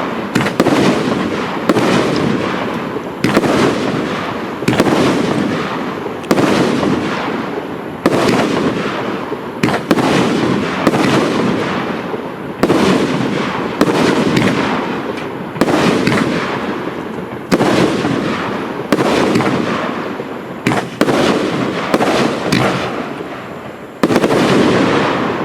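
A 19-shot consumer firework cake firing its shots in sequence: sharp bangs about every one and a half seconds, each trailing off in a slowly fading rush of noise, with a couple of shots coming close together.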